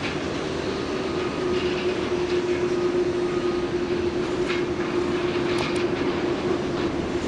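Jet airliner engines running with a steady rumble and a steady low hum that holds throughout.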